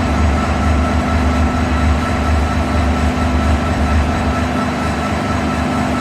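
Train running along the track: a steady, loud rumble with steady humming tones above it.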